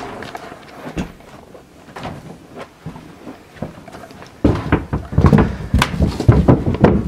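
Light knocks and creaks on wooden boards, then from about four and a half seconds in a run of louder thuds: someone moving about on an attic's plank floor.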